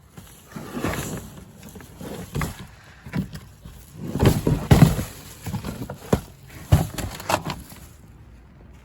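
Shopping bag rustling and crinkling as it is handled and opened, with a few short knocks, loudest about four to five seconds in.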